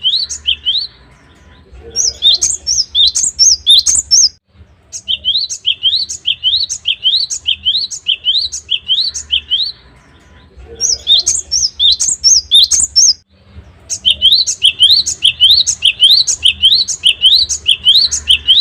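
Cinereous tit (gelatik batu) singing: bouts of quick, rising whistled notes, two or three a second, some with higher notes in between, broken by short pauses. A faint low hum runs underneath.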